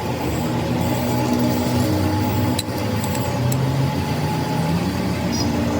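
Rebuilt Petter diesel engine, fitted with new seals and piston rings, running steadily.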